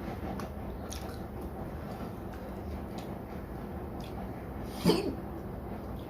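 Chewing and small wet eating sounds from a meal of rice and curry, over a steady low background hum. One short, louder vocal sound comes about five seconds in.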